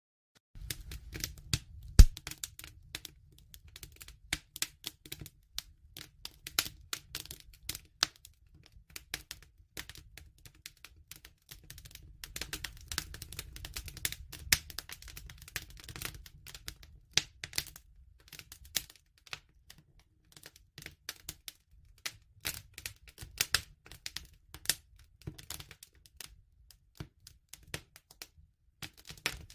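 Campfire crackling: an irregular stream of wood pops and snaps over a low rumble of flames, with one loud pop about two seconds in. The sound cuts in after a brief dropout about half a second in.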